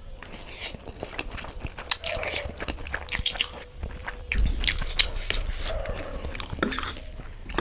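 A person chewing food close to the microphone, with many short, wet mouth clicks and smacks.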